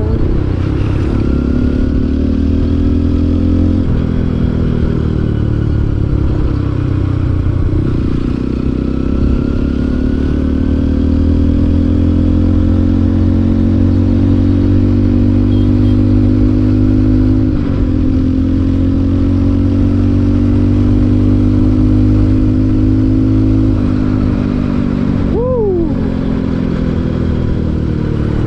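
Motorcycle engine running under way on the road, its pitch rising and falling as throttle and speed change, its oil freshly dosed with EGB Safety Engine Lube additive. A brief falling squeal sounds near the end.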